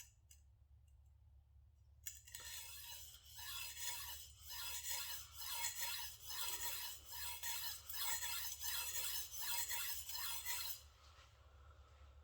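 Kitchen knife blade stroked back and forth across a diamond sharpening stone with light pressure: a steady run of quick scraping strokes that starts about two seconds in and stops shortly before the end. The strokes work one side of the edge to raise a burr.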